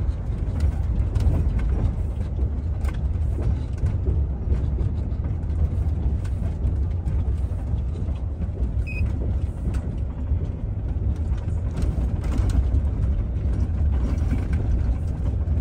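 Heavy truck in motion, heard from inside the cab: a steady low engine and road rumble with scattered light knocks and rattles.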